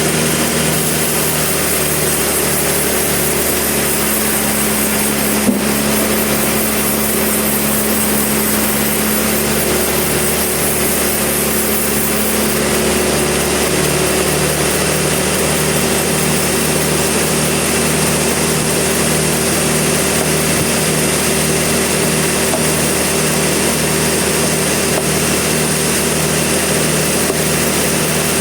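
Sawmill engine running steadily and loud, with one sharp click about five and a half seconds in.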